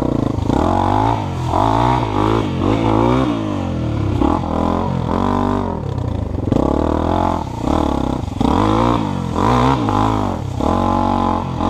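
Dirt bike engine revving up and down over and over, its pitch rising and falling every second or so as the throttle is worked. A second bike's engine may be running underneath.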